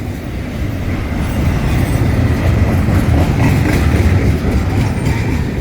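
Double-stacked intermodal container freight train passing close by, its wheels clattering on the rails over a steady heavy rumble, getting louder about halfway through.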